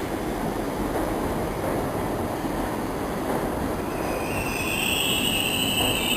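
R62A subway train running with a steady rumble. About four and a half seconds in, a high metal-on-metal squeal joins in and holds.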